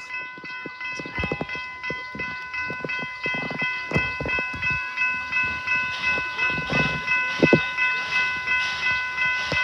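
Railroad crossing bell ringing in an even rhythm of about two strokes a second as the park train passes, with low clatter and knocks from the train on the track.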